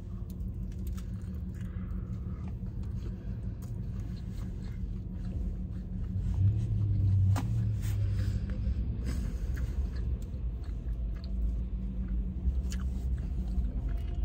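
A person biting into and chewing triangle kimbab, with small scattered mouth clicks, over a steady low rumble inside a car's cabin. The rumble swells about six seconds in and eases again about two seconds later.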